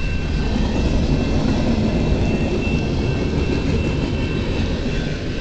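A long CN manifest freight train, mostly tank cars, rolling steadily past with a continuous low rumble of wheels on rail.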